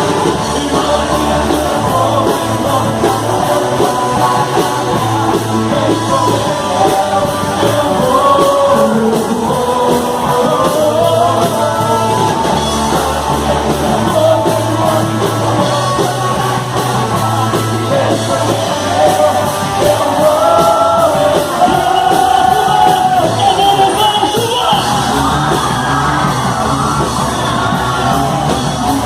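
Live worship music: a band with steady bass and drums under voices singing, with some shouting, in a large reverberant hall.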